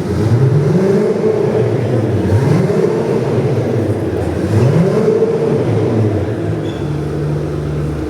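A car engine revved three times, each blip rising and falling in pitch about two seconds apart, then settling to a steady idle near the end.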